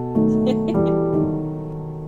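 Background piano music, soft chords with a new note or chord about every half second.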